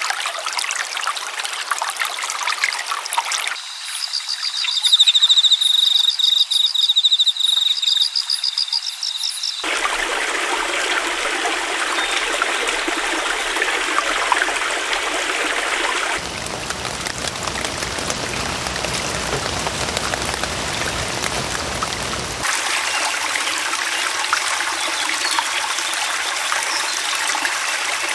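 Flowing water like a trickling stream, in several short recordings joined with abrupt cuts. From about four to ten seconds in, a high, rapidly repeated chirping sounds over the water.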